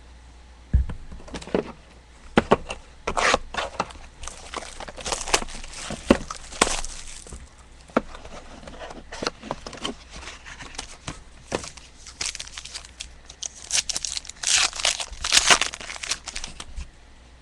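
Foil trading-card pack wrappers tearing and crinkling, with cards and packaging handled in between: irregular clicks and knocks, and louder crinkling bursts twice.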